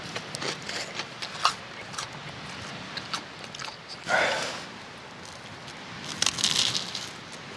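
Close-up biting and chewing of grilled sake lees, with crisp crunches and small clicks. A louder burst comes about four seconds in, and a cluster of crunches follows about six seconds in.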